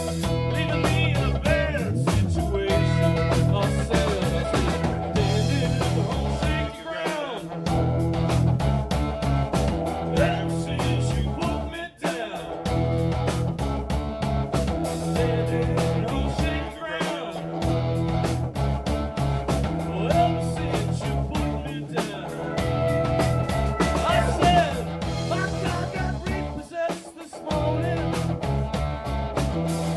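A live rock band playing an instrumental passage: electric guitar with pitch bends over steady bass and drums.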